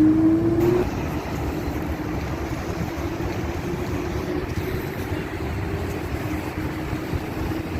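Dubai Metro train running, its motor whine rising in pitch during the first second and then settling into a steady rumble with a faint hum.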